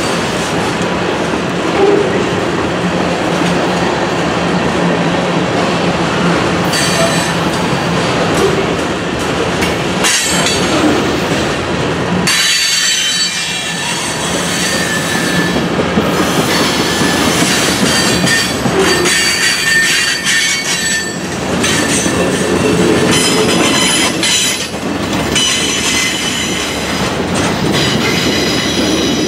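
Freight cars of a mixed freight train rolling past: a steady rumble and clatter of steel wheels on the rails, with high-pitched wheel squeal coming and going from about seven seconds in.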